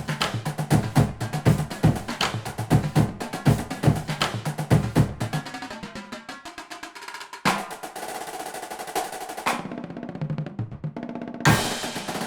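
Drum-driven background music: a fast, steady drum beat that drops away about halfway through, gives way to held notes, and comes back in with a loud hit near the end.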